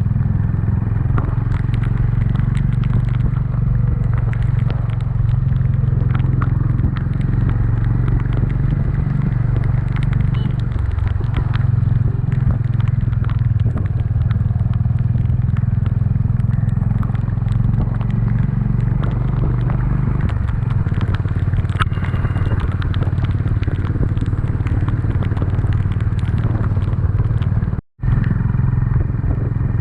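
Honda CB350's single-cylinder engine running at a steady pace while riding, with faint scattered crackles over it. The sound drops out for an instant near the end.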